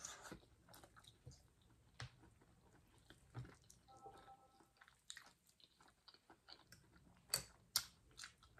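Quiet, close-up chewing of food, with scattered soft mouth clicks and two sharper clicks near the end.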